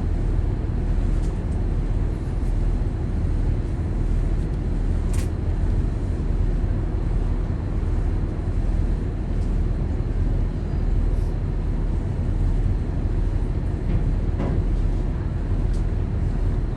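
Steady low rumble of a high-speed catamaran ferry's engines running underway.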